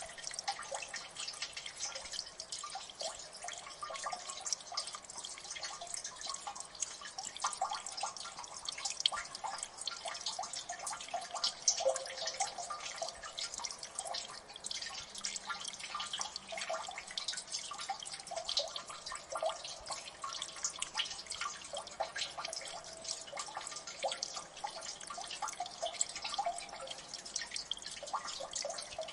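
Water dripping in a gully: many irregular drops plinking and plopping into water, dense and continuous with no steady rhythm.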